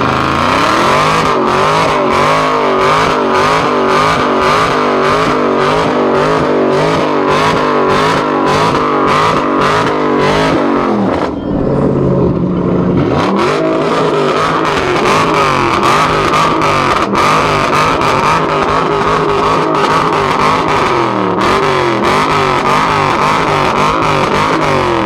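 A car engine revved hard and held high, its pitch wavering up and down rapidly. It drops off briefly about eleven seconds in, then climbs back up, and winds down near the end.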